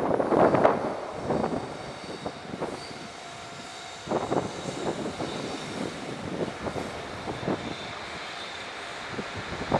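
Train passing over a level crossing, its wheels clacking over the rail joints in close pairs about once a second, each pair a bogie's two axles, with heavier knocks in the first second and again about four seconds in.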